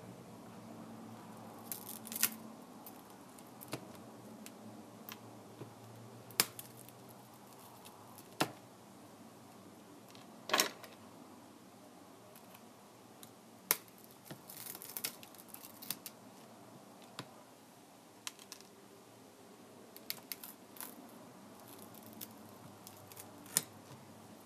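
Irregular small clicks and taps of tools and plastic parts on a Kindle Fire tablet being taken apart for a screen replacement, about a dozen spread unevenly over the span, with a faint steady hum beneath.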